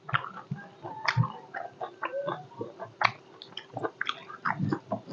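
Close-miked chewing of a mouthful of rice and meat, with a run of irregular wet mouth clicks and smacks.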